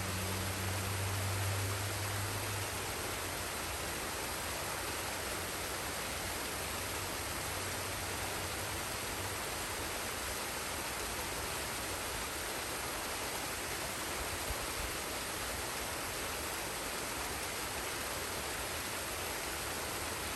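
Waterfall and forest stream rushing steadily. A low hum underneath fades away over the first few seconds.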